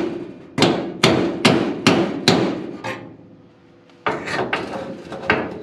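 Hammer blows on metal while knocking an old car-door hinge loose: five sharp strikes about two a second, then a pause of about a second and a quicker run of lighter knocks with a faint ring.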